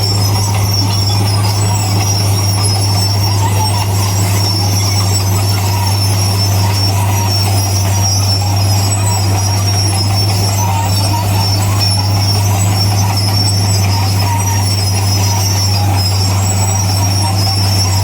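Bulldozer working, its diesel engine running with a steady low drone and a high-pitched squeal over it from the steel tracks.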